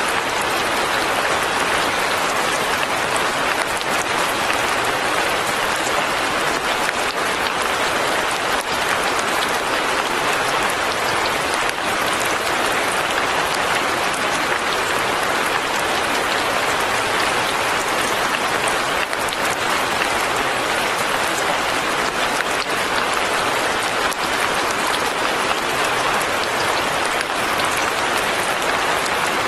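Light rain falling steadily: an even, unbroken hiss of drops with faint scattered ticks.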